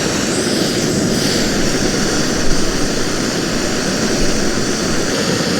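A steady, loud rushing roar with no clear pitch or rhythm.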